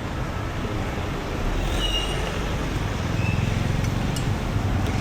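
Street traffic: motor vehicles running and passing, with a low engine rumble that grows louder about a second and a half in, and a couple of brief high-pitched tones.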